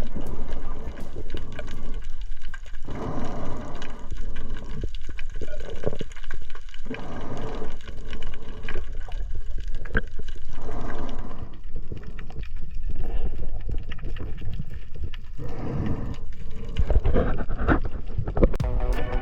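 Water gurgling and sloshing in uneven surges.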